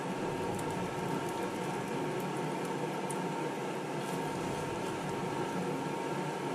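Egg-soaked bread slices sizzling as they fry in a hot Vermicular frying pan: a steady frying hiss with faint crackles, over a steady hum.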